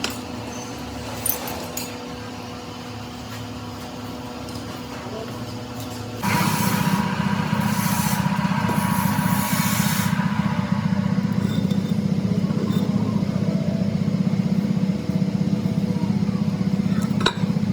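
A machine's motor or engine starts up about six seconds in and keeps running steadily with a fast low pulsing, a hiss riding over it for its first few seconds; before that only a low steady hum and a few light clicks.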